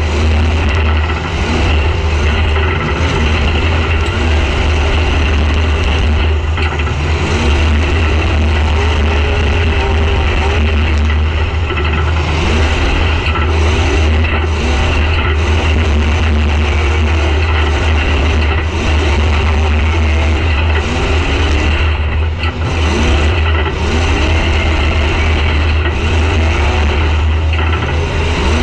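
Demolition derby car's engine running hard, heard from inside the stripped cab: a heavy low drone with short rising revs over and over as the driver works the throttle.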